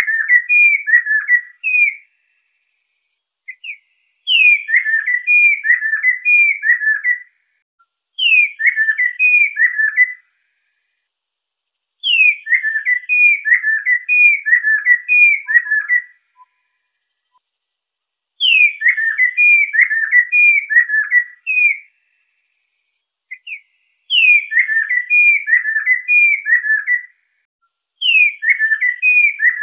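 Lesser necklaced laughingthrush (poksai) singing. Each phrase opens with a bright falling whistle and runs into a quick series of looping whistled notes. The phrase is repeated about seven times with short pauses between.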